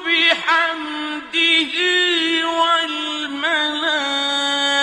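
Quran recitation: a single voice chanting a verse in melodic tajweed style, drawing out long held notes with ornamented turns in pitch.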